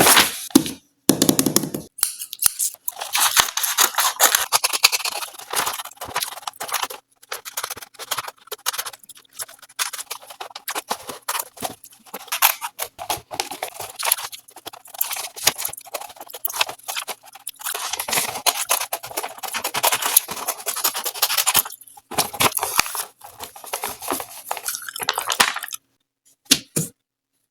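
Scissors cutting paper: rapid snips and rasping scrapes in long runs, broken by short pauses.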